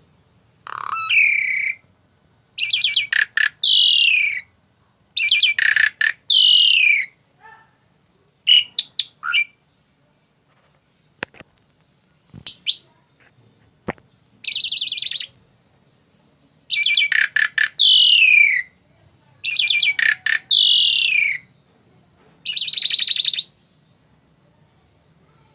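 Asian pied starling calling: repeated loud, harsh phrases of descending whistled notes, each a second or two long with short gaps between. In the middle the phrases break off for a few seconds, and there are a few sharp clicks.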